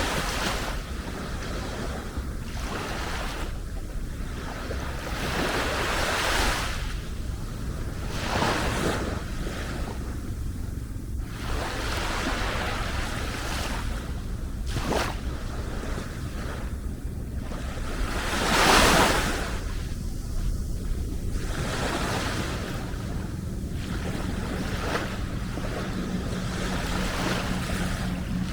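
Small sea waves breaking and washing up a beach, surging and fading every couple of seconds, the biggest one about two-thirds of the way through. A steady low rumble of wind buffets the microphone underneath.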